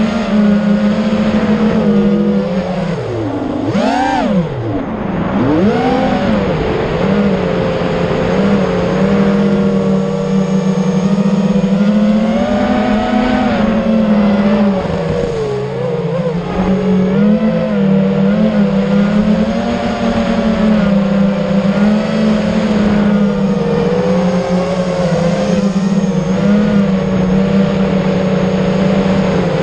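FPV racing drone's electric motors and propellers whining steadily. The pitch dips and swoops up and down a few seconds in with throttle changes, then holds fairly level with small wobbles.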